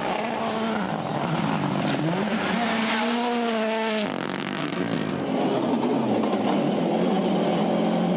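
Rally car engine at full throttle on a gravel stage, its pitch climbing and dropping with gear changes, over a hiss of tyres and gravel. The sound changes abruptly about four seconds in, to another stretch of engine with a falling then steady pitch.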